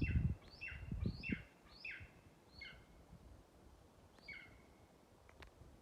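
An eagle calling: a run of short, sharp, down-slurred calls, about two a second for the first three seconds, then a pause and one more call. Low rumbling in the first second and a half.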